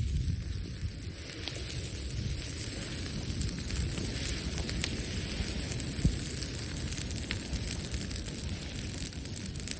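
Wood fire burning, with scattered sharp crackling pops over a steady low rush.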